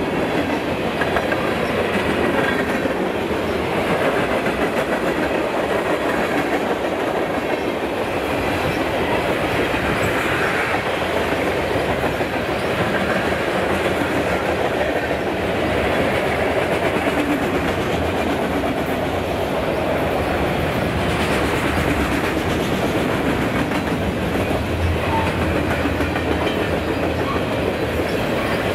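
Freight cars of a long train (tank cars, covered hoppers, boxcars) rolling past at speed: a steady rumble and clatter of steel wheels on the rails.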